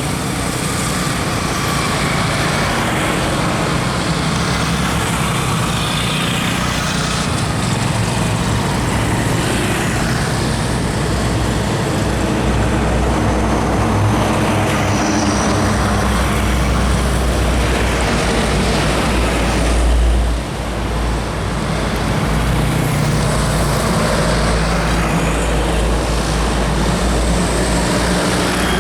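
Heavy diesel truck and bus engines running steadily with road and traffic noise, dipping briefly about twenty seconds in.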